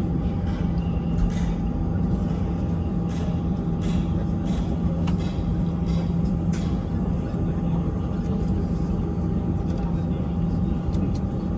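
Steady cabin drone inside an Airbus A320-200 airliner, with a thin steady tone above it and a few faint clicks, and passenger voices in the background.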